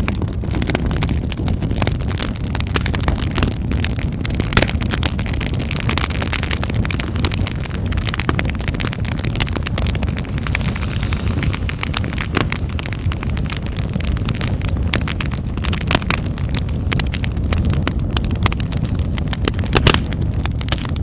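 Wood fire in a fireplace crackling steadily, with many sharp pops and snaps over a low rumble of the flames.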